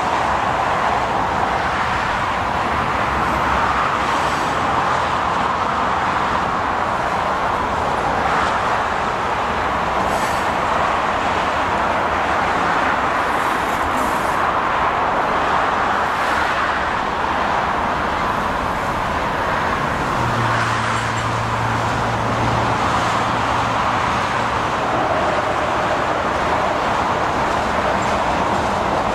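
Freight train of loaded ballast hopper cars rolling past on the rails: a steady rumble of steel wheels on track. A low hum comes in for a few seconds about twenty seconds in.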